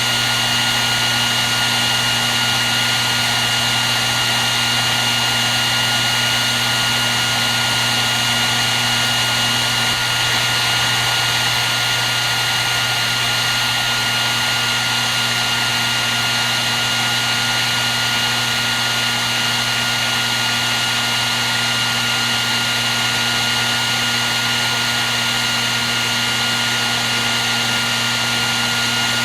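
Hair dryer running steadily: an even rush of blown air with a constant high motor whine and a low hum underneath.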